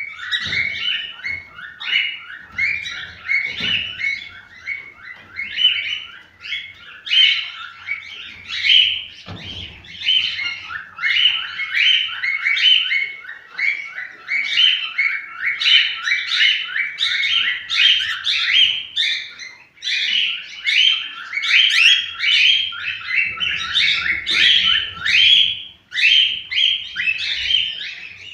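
Cockatiels chirping and warbling continuously in rapid, repeated high notes, with a few soft knocks in the first ten seconds.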